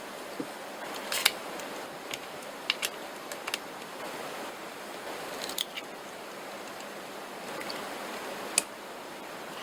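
Irregular sharp clicks and clinks of metal tools and engine parts being handled, over a steady hiss. The loudest clicks come about a second in and near the end.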